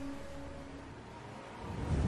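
A held music chord fades out in the first second, then a low rushing whoosh swells up near the end.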